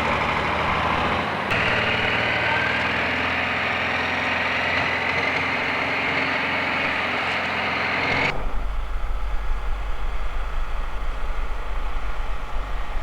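Engine noise with a whine that rises slowly in pitch over several seconds. About eight seconds in it cuts abruptly to a lower, heavier steady rumble.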